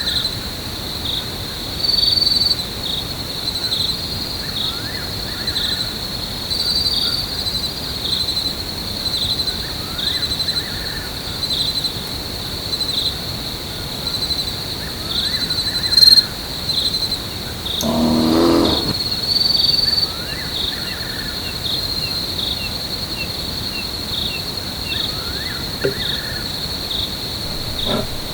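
Jungle insects chirring steadily in a high pulsing trill, with a short chirpy call repeating about every two to three seconds. About two-thirds of the way through, one lower animal call lasts about a second.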